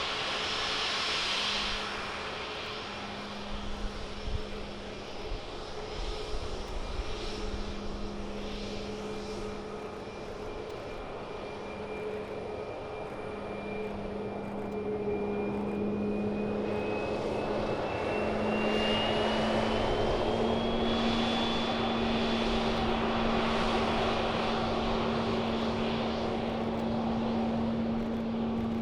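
Departing aircraft's engines running with a steady low hum and a high whine. About two-thirds of the way through, the whine rises in pitch and the engines get louder as they power up.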